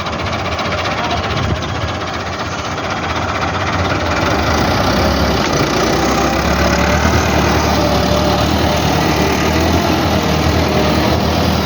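Tractor engine running, getting louder and steadier about four or five seconds in.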